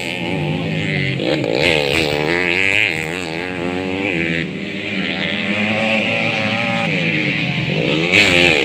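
Motocross bikes racing, their engines revving up and falling back again and again as they go round the track.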